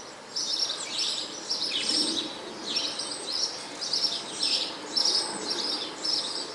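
Birds singing, with short chirping phrases repeating every half second or so, over a faint steady low hum.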